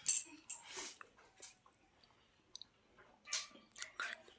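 A person chewing and biting into cooked chicken with wet smacking mouth sounds in short bursts. The loudest bite is right at the start, with another cluster about three seconds in.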